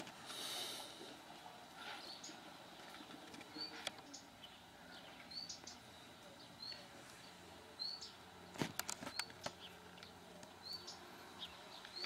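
A small bird chirping: short, high, upward-flicking chirps repeated every one to two seconds. A brief hiss comes near the start, and a quick cluster of sharp clicks about two-thirds of the way through.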